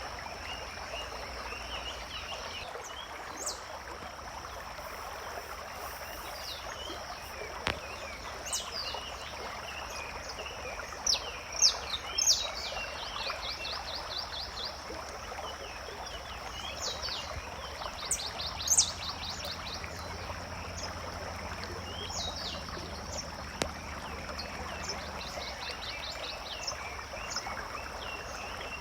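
Forest ambience of birds calling, with short sweeping chirps and several rapid trills, over a steady high-pitched drone and the continuous rush of running water.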